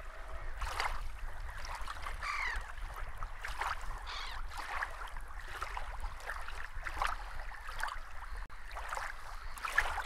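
Birds calling in short, scattered calls over a low steady rumble.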